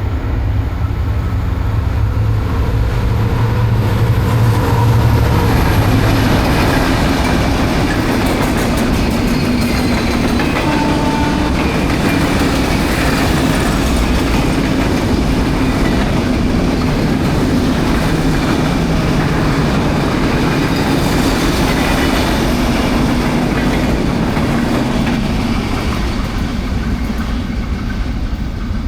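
A train passing close by: a loud, steady rumble of wheels running on the rails.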